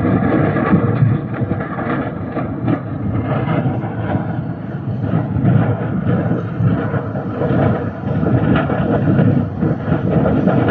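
Loud, steady rumbling noise with no clear breaks or single impacts.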